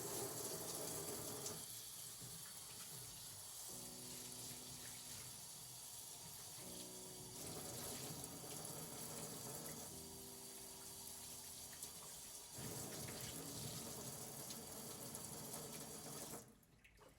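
Water running steadily from a tap into a sink, stopping suddenly near the end, with soft piano music underneath.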